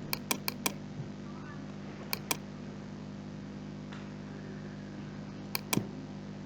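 Computer mouse clicking: a quick run of about four clicks at the start, then a pair of clicks about two seconds in and another pair near the end, over a steady low electrical hum.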